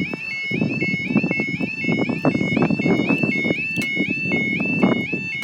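Level crossing warning alarm sounding its two-tone yodel, stepping steadily back and forth between a lower and a higher tone about twice a second, each tone sliding up as it starts, over a background of lower noise.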